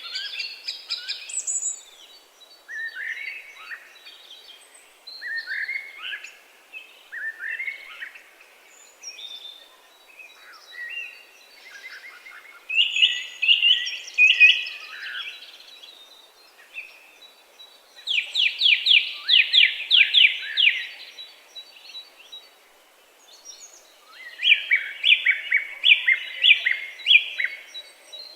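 Songbirds singing, short phrases several seconds apart, some of them fast trills of evenly repeated notes lasting two to three seconds.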